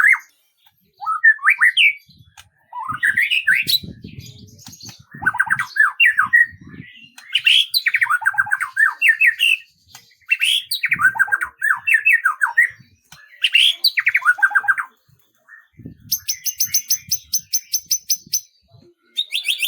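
A songbird singing in phrases of quick, sliding warbled notes with short pauses between them, then a fast, high, even trill near the end.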